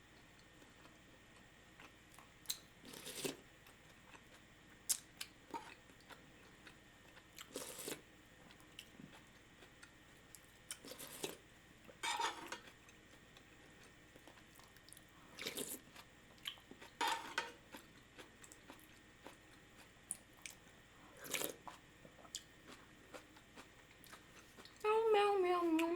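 Close-miked chewing and biting of food, in short irregular sounds a few seconds apart. Near the end a woman starts humming.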